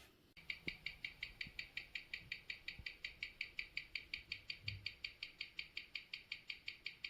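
Vintage Omega Constellation watch movement ticking steadily, about five crisp ticks a second, close to the microphone. This is the running rhythm of the serviced mechanical movement.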